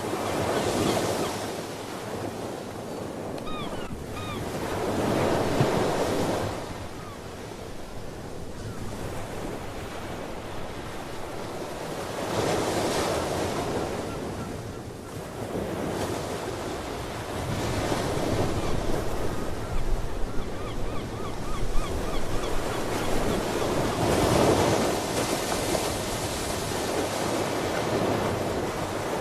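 Ocean waves breaking and washing in, surging and fading in slow swells about every five to seven seconds. A few short sea bird calls come about three to four seconds in.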